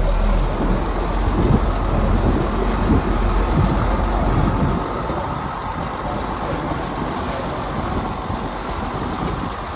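Heavy diesel construction machinery running, with a rough, irregular rumble for the first five seconds or so that then settles into a steadier, slightly quieter running sound.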